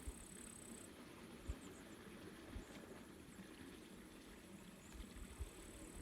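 Faint natural ambience of water lapping, with a few soft low thumps, a steady high trill that stops about a second in, and a few faint high bird chirps.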